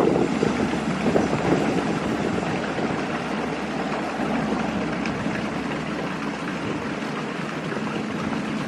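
Passenger train rolling past on the curve: a steady rushing of wheels on rail that slowly fades as it goes by.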